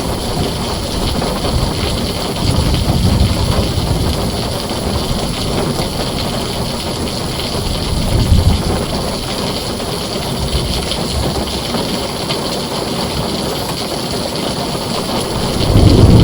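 Heavy rain drumming steadily on a tin roof, with low thunder rumbling in swells: one about three seconds in, a brief one about eight seconds in, and a louder roll building near the end.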